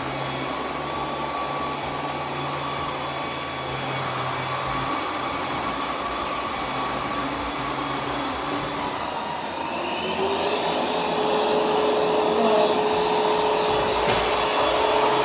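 Roborock Q10V+ robot vacuum running on carpet, its suction fan whirring steadily. About ten seconds in, a new tone joins and it gets a little louder.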